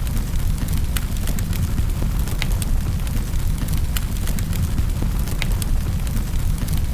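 Wood fire burning in a fireplace: a steady low rumble of flames with sharp crackles and pops scattered irregularly, several each second.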